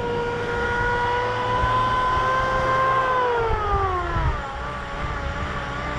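A motor vehicle's engine hum, its pitch dropping about three to four seconds in as it goes by, with wind rumbling on the microphone.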